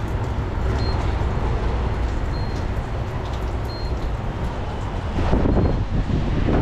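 Truck-stop fuel island: a steady low rumble of diesel trucks running, with noise that swells briefly near the end and short faint high beeps now and then.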